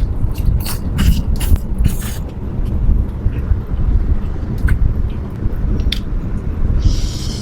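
Close-up eating sounds: chewing with scattered sharp clicks and smacks, and a short hissing slurp near the end, over a steady low rumble.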